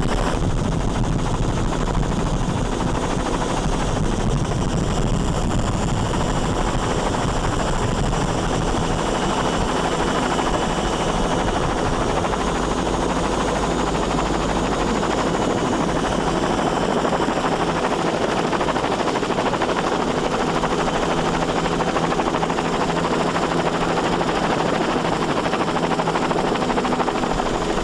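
Steady engine drone with a rushing wind-and-water noise, unbroken throughout.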